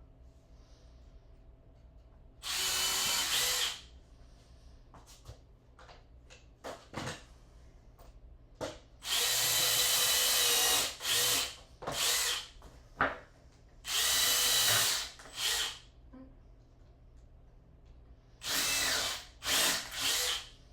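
Power drill run in about nine bursts, the longest about two seconds and several brief ones, with a steady motor whine in each and small clicks and knocks in the gaps between.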